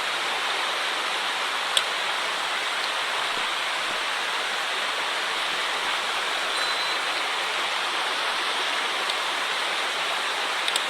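Steady rushing of a mountain stream running high after a typhoon, with a sharp click about two seconds in and two small clicks near the end.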